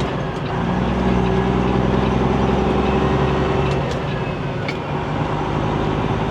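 Semi truck's diesel engine running under way, its pitch climbing a little in the first second and then holding steady.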